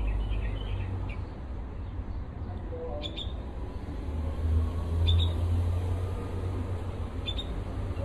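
Small bird chirping: a quick run of short, high chirps in the first second, then a single chirp about every two seconds. Under it runs a steady low rumble.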